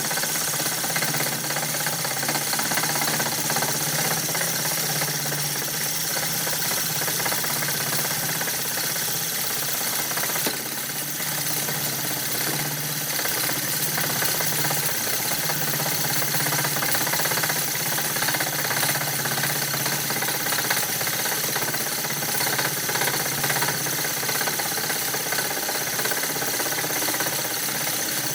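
Wood lathe running steadily as the vase blank is worked: a constant low motor hum under a dense hiss, with a brief dip about ten seconds in.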